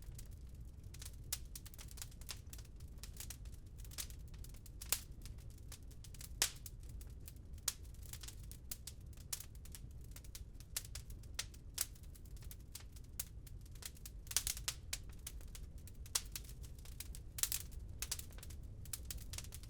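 Wood fire crackling in a fireplace: irregular sharp pops and snaps over a steady low rumble of burning, with small flurries of pops about fourteen and seventeen seconds in.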